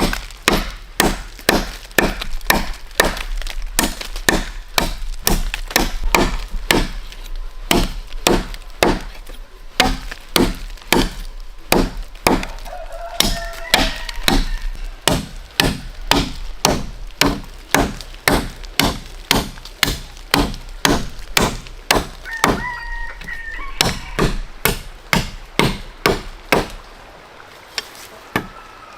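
Steady, rhythmic chopping into wood, about two strokes a second, easing off near the end.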